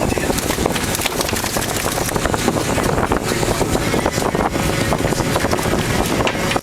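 Steady, loud running noise of a working fishing boat, its engine and deck machinery going, with scattered knocks and clatter.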